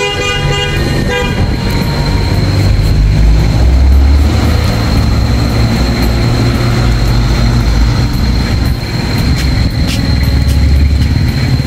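Motorcycle engine running with a heavy low rumble that swells and eases. A horn-like tone with several pitches sounds at the start and dies away about a second in.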